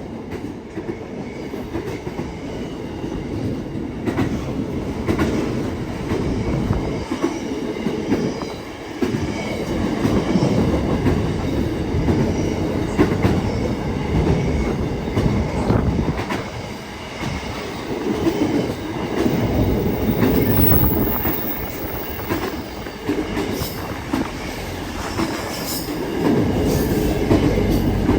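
Freight train wagons rolling through a station without stopping, with a continuous rumble and wheel clatter over the rail joints that swells and eases every few seconds.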